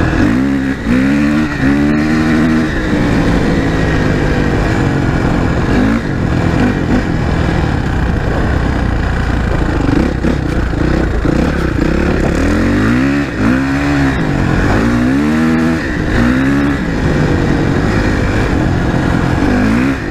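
Suzuki RM-Z 450 dirt bike's single-cylinder four-stroke engine under way, its pitch climbing and dropping back again and again as the rider opens and closes the throttle.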